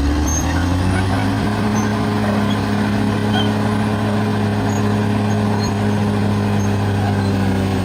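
Bulldozer diesel engine running under steady high revs, its pitch climbing at the very start and then holding even.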